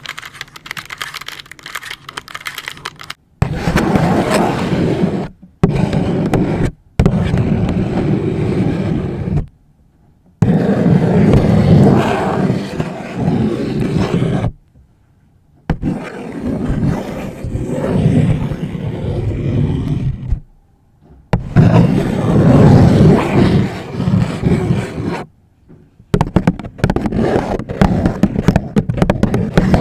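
Long fingernails tapping and clicking on a calculator for the first few seconds, then scratching and rustling a paper bag close to the microphone, in loud bursts of several seconds with short pauses between.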